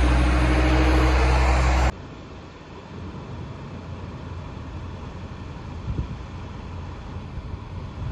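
Heavy vehicle's diesel engine running loud, with a whine that rises and then holds steady; it cuts off abruptly about two seconds in, leaving quieter outdoor noise with a few faint knocks.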